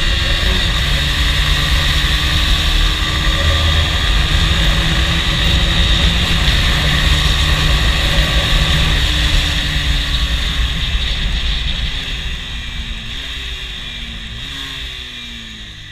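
2004 Honda CBR125R's 125cc single-cylinder four-stroke engine running hard at high revs, with heavy wind rush on the helmet- or bike-mounted microphone. From about ten seconds in the engine note and level drop off, the pitch falling in several steps as the bike slows and shifts down.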